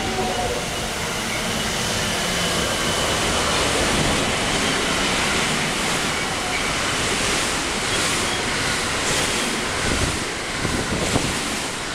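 JR West 223/225-series electric train passing a station platform at speed: a steady rushing noise of wheels on rail and moving air, with a faint high whine in the first half.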